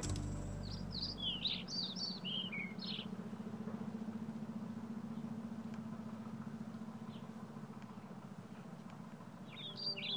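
A songbird twitters a quick run of high chirps for the first few seconds and again near the end, over a steady low hum.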